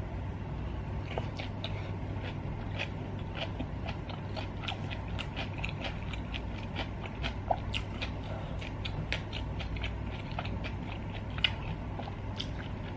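Close-up mouth sounds of a person chewing a mouthful of spicy stir-fried beef and rice cakes: soft, wet clicks and smacks several times a second over a steady low hum.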